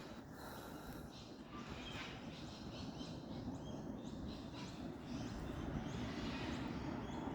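Faint scattered bird chirps over a steady low background hum of outdoor noise.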